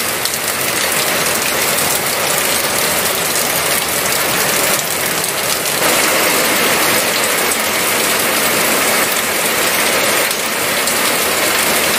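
Fairly heavy rain falling steadily at night, a dense, even hiss of drops hitting the ground and surfaces.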